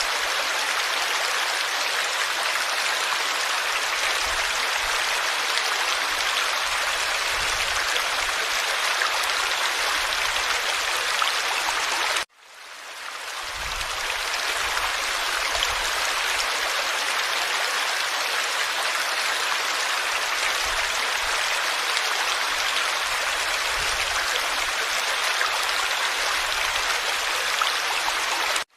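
Forest stream running steadily, an even rushing and babbling of water. About twelve seconds in the sound cuts out abruptly and fades back up over a second or two.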